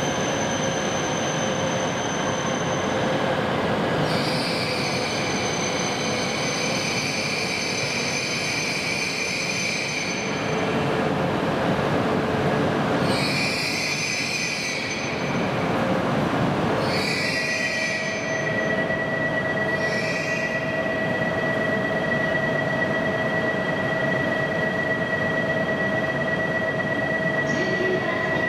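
E4 series Max double-decker Shinkansen standing at the platform, its equipment running with a steady hum and several steady high-pitched tones. Bursts of hiss come and go, the longest lasting about six seconds a few seconds in, then shorter ones a few seconds apart.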